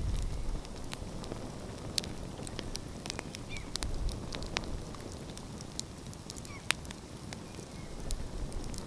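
Wood fire crackling, with frequent irregular sharp pops and snaps, over a low rumble that is strongest at the start.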